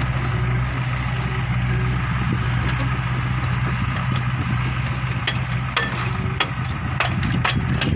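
Dump truck engine idling steadily. About five seconds in, a run of sharp clicks and knocks starts over the idle.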